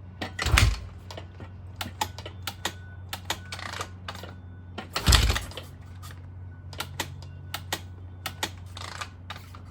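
Kick-starter of a cold 2005 Honda CRF450 four-stroke kicked twice, about five seconds apart, each a heavy thud while the engine does not fire. Between the kicks come light clicks from the throttle being pumped.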